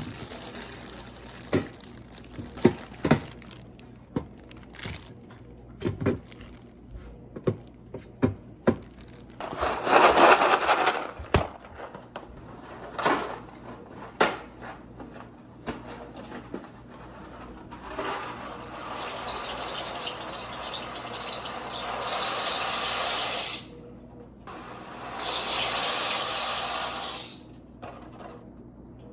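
A string of sharp clicks and knocks of things being handled, then running water from a tap in two spells of several seconds, the second starting after a short break.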